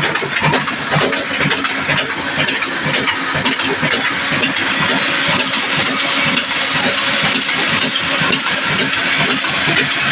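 Old black diesel engine running steadily with a regular knocking firing beat.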